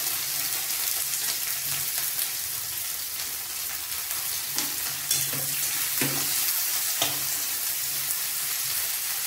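Sliced onions sizzling steadily in hot mustard oil in a kadai. A spatula stirs and knocks against the pan a few times, mostly in the middle of the stretch.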